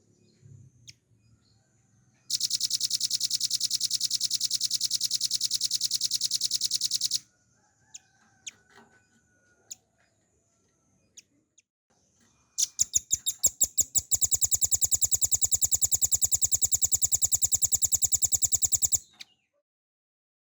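Velvet-fronted nuthatch singing two long, rapid trills of sharp, evenly repeated notes, each about five to six seconds long. The second begins with a few spaced notes that speed up into the trill. Faint short calls come between the trills.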